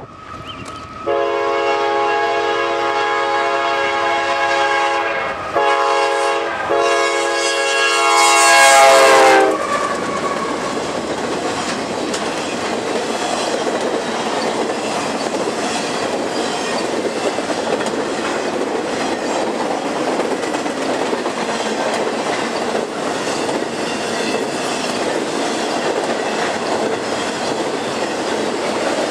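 Freight locomotive's multi-chime air horn blowing for the grade crossing in three blasts, the middle one short, cutting off about nine seconds in. Then the steady rumble and clatter of intermodal flatcars loaded with highway trailers rolling past.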